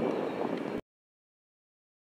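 Rolling rumble of a freight train moving away after its last hopper wagon has passed. It cuts off abruptly to silence under a second in.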